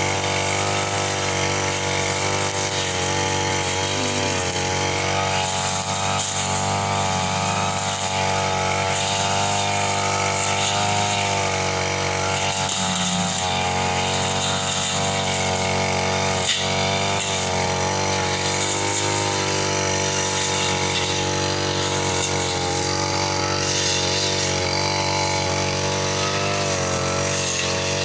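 Petrol brush cutter running steadily at working speed, its engine pitch wavering a little as the blade meets the undergrowth. One sharp tick about two-thirds of the way through.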